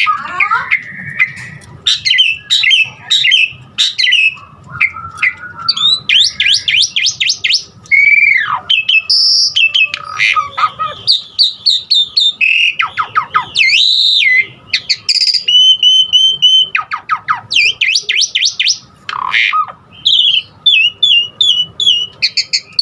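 Jalak suren (pied starling) singing a loud, continuous, varied song of slurred whistles, rapid rattling trills, a held whistle and short squawks, strung together with mimicked calls.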